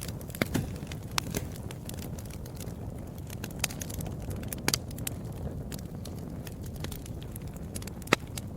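Wood fire crackling: irregular sharp pops and snaps over a low steady rumble of the flames, the loudest pop near the end.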